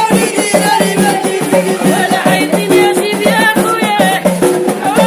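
Moroccan folk music: a melody sung over fast, steady hand percussion.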